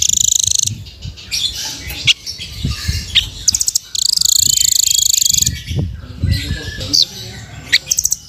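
Velvet-fronted nuthatch (rambatan) calling: rapid high trills, one at the start and a longer one of about a second and a half midway, mixed with short sharp chirps and quick down-slurred notes. A low irregular rumble runs underneath.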